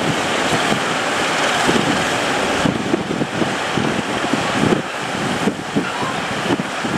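Sea waves surging and breaking, with strong wind buffeting the microphone.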